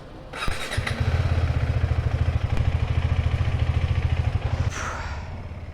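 Motorcycle engine starting and then running with a steady, low pulsing beat, dropping to a quieter idle near the end.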